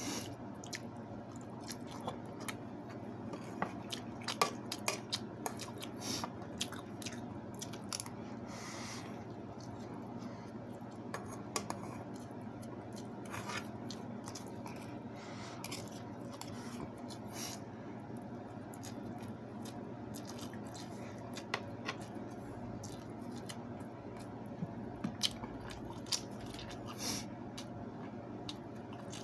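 A person chewing and eating by hand, with many small scattered clicks and taps of food and dishes, over a steady low hum.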